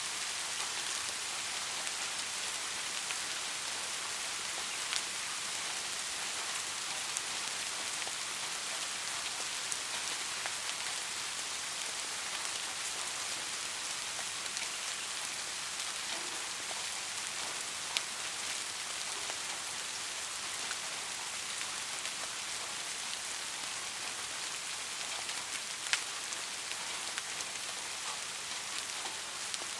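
Steady rain falling on a surface, an even hiss with scattered individual drop ticks; a few sharper drop hits stand out, around 5, 18 and 26 seconds in.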